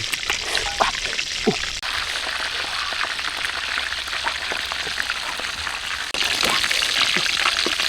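Food frying in a pan, a steady sizzle with scattered small crackles. The sound changes abruptly twice, and the sizzle is louder and brighter from about six seconds in.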